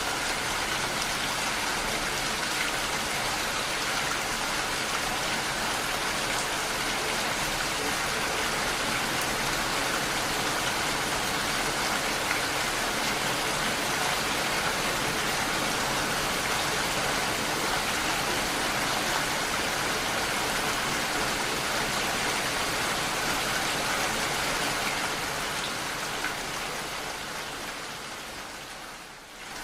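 Steady rain falling, an even hiss of drops. It fades down over the last few seconds to a brief low point and then comes back up.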